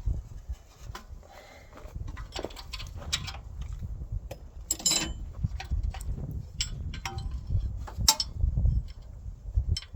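Hand tools working on the engine's bolts: irregular metallic clinks and knocks of a wrench on steel, loudest about five seconds in and again about eight seconds in, over a low rumble of handling noise.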